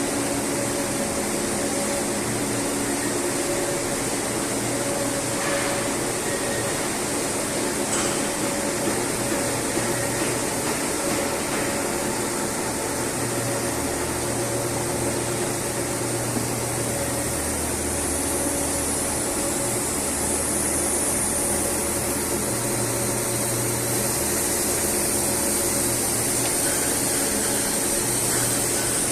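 Steady industrial machinery noise: a constant hiss with a few held hum tones underneath, unchanging throughout.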